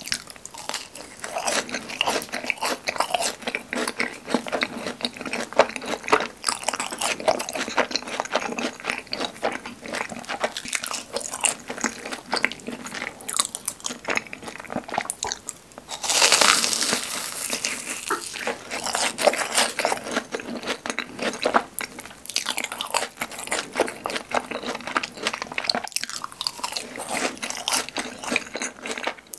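Close-miked crunching and chewing of crispy fried cheese balls dipped in creamy sauce: crackly bites with wet mouth sounds, and a louder crunch a little past halfway.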